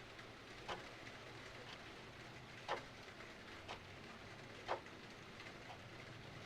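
Clock ticking about once a second, the strokes alternating stronger and weaker, over a steady hiss of rain.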